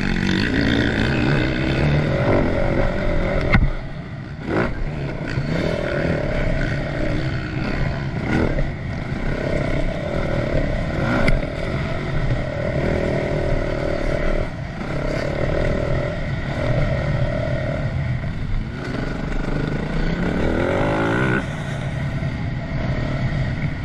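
2010 Yamaha YZ450F four-stroke single-cylinder motocross bike being ridden round a dirt track, its engine revving up and down as the throttle opens and closes, with a rising rev near the end. Two sharp knocks about three and a half and four and a half seconds in.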